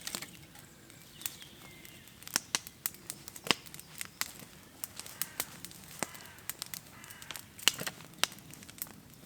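Irregular sharp clicks and snaps, a few a second, with faint bird chirps behind them.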